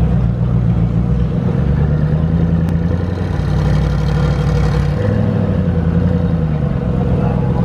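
Car engine running steadily at low revs, its pitch lifting a little about two seconds in and dropping back about five seconds in.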